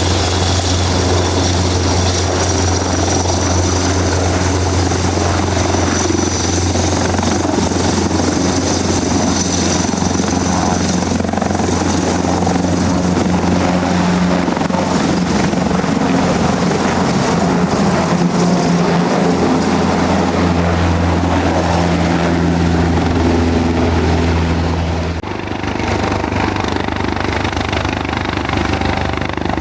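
Helicopter running close by, a steady loud rotor hum with a high engine whine over it. About 25 seconds in the sound changes abruptly to a slightly different helicopter sound.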